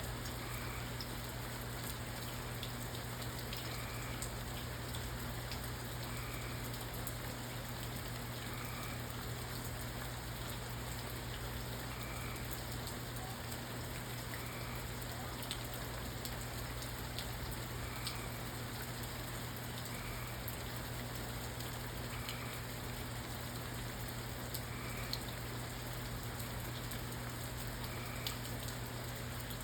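Steady rain falling, with scattered drop ticks over an even hiss. Under it runs a constant low hum, and a faint short chirp repeats about every two seconds.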